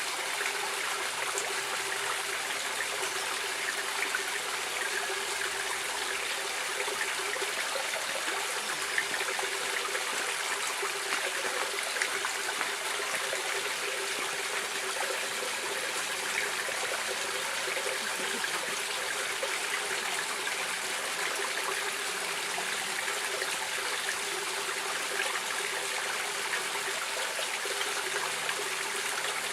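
Stream water running with a steady, even rush that does not change.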